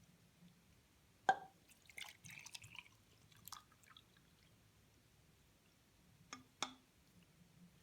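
Faint handling of a small water-filled plastic bag: a sharp drip-like plink a second in, a few small crackles, and two clicks near the end.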